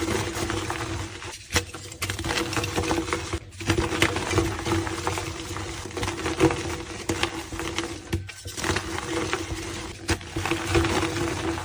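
Blocks of gym chalk being crushed and crumbled: a dense, continuous crunching crackle, broken by a few brief gaps where clips are cut together.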